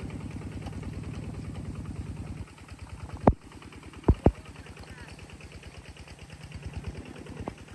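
A small engine running with a fast, even pulse, louder for the first couple of seconds and then lower. Three sharp knocks stand out: one about three seconds in and two close together a second later.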